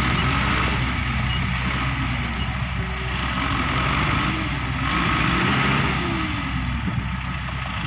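Dump truck's diesel engine running at a steady idle, a continuous low hum.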